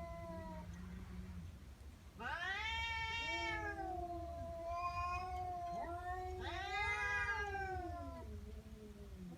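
Domestic cat yowling in an angry threat display: three long, drawn-out 'wauuu' cries that rise and then fall in pitch. Between them come lower, steady moans near the start and near the end.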